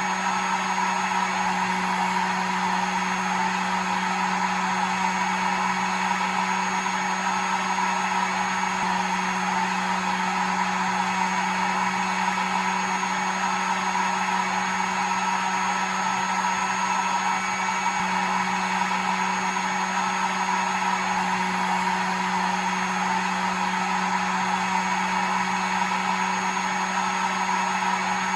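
Hair dryer running steadily: an unbroken motor hum under the rush of its blown air, with a faint high whine above, never changing in pitch or level.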